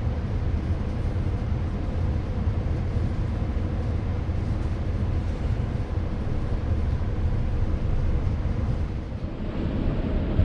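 Steady low rumble of a ZSSK Ampz passenger carriage running along the track, heard from inside the carriage, with a slight dip about nine seconds in.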